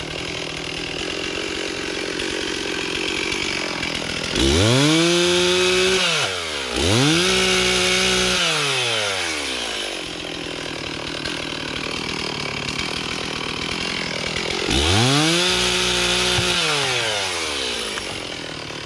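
Stihl chainsaw idling, revved up to high speed three times, each held about two seconds before dropping back to idle.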